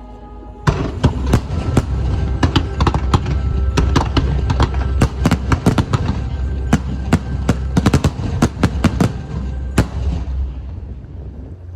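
Fireworks going off in a rapid volley of sharp bangs and crackles with a deep rumble beneath. The volley starts about a second in and dies away near the end, with music playing underneath.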